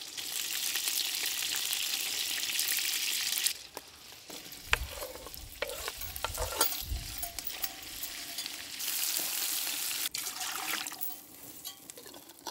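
Meatballs sizzling in a pot over a campfire while being stirred: a sizzling hiss for the first three and a half seconds and again for a second or so near the end, with scattered knocks of the spoon against the pot in between.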